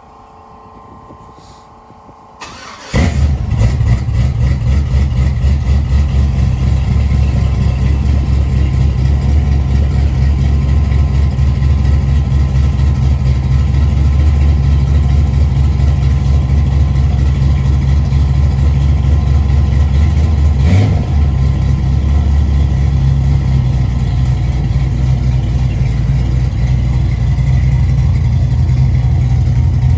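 A car engine starts about three seconds in and then runs steadily and loud, with a pulsing low note.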